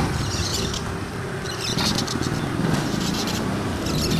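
Small birds twittering in short, high, squeaky bursts, three times, over a steady low rumble.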